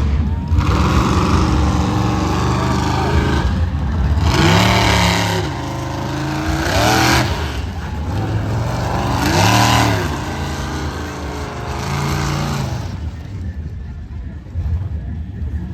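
Monster truck engines running hard and revving up and down repeatedly, with the biggest revs about four and a half, seven and nine and a half seconds in, easing off near the end.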